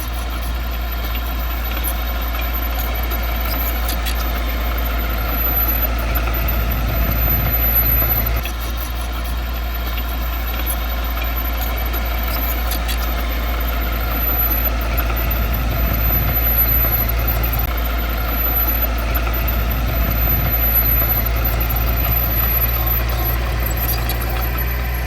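Heavy diesel engine of earthmoving equipment running steadily, dipping slightly in level about eight seconds in.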